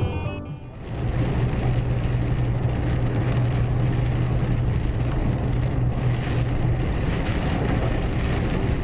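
A moving vehicle running steadily, with an even low engine hum over road and wind noise. Music cuts off in the first second.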